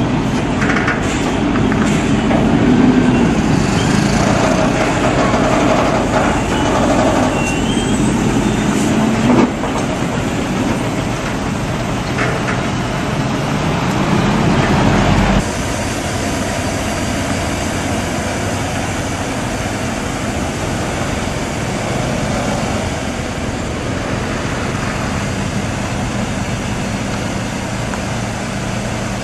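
Heavy truck engines running, with the engine note rising as one revs up between about twelve and fifteen seconds in. The sound changes abruptly at about nine and fifteen seconds.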